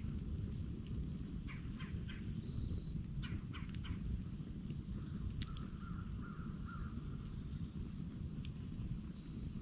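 Campfire burning with a steady low rumble and scattered sharp crackles and pops. Birds call in the background: a cluster of short calls in the first few seconds, then a wavering call for about two seconds around the middle.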